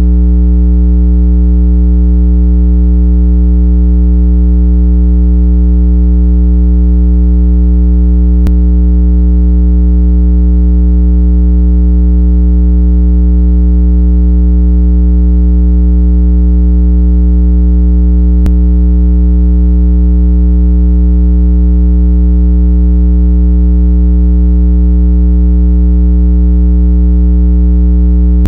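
Synthesized 165 Hz water-eject tone: a loud, steady low hum with overtones, held unchanged, played to vibrate trapped water out of earbud and phone speakers. Faint clicks twice, about ten seconds apart.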